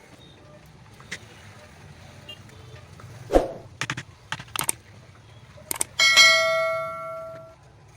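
Hard knocks and clicks of metal parts and tools being handled, the loudest about three and a half seconds in. About six seconds in, a struck metal piece rings with a clear bell-like tone that fades over about a second and a half.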